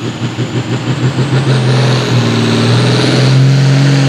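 Hot farm class pulling tractor's diesel engine running hard under load. It pulses quickly at first, then holds a steady, louder note, with a faint whine rising slowly in pitch.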